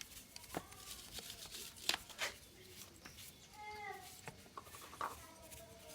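A few sharp clicks and knocks, and about three and a half seconds in a short pitched animal-like call that falls in pitch.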